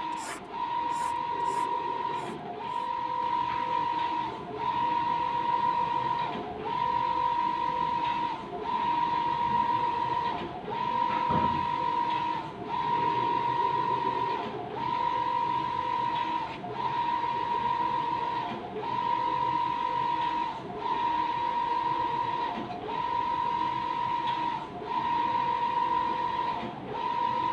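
Mimaki JV33-160 BS wide-format inkjet printer printing a decal. Its print-head carriage sweeps back and forth with a steady whine on each pass, and the whine breaks off briefly about every two seconds as the carriage turns around.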